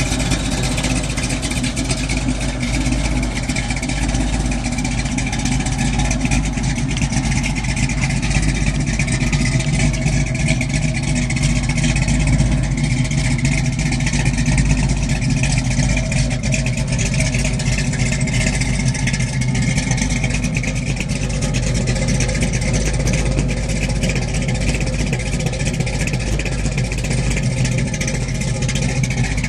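Muscle car engine running steadily, with a strong low note whose pitch drifts slightly up and down.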